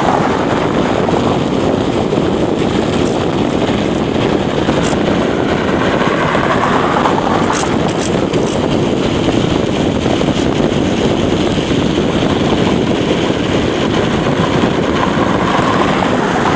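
Wind rushing over the microphone of a bicycle coasting fast downhill: a steady, loud rushing noise, with a few faint clicks.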